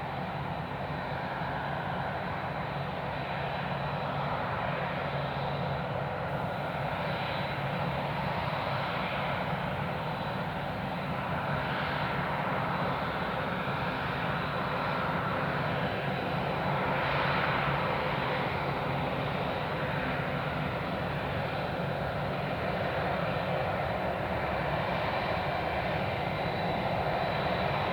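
Airbus A380's Engine Alliance GP7200 turbofans running steadily at idle, a continuous jet hum with a faint high whistle, as the aircraft holds on the runway before its takeoff roll.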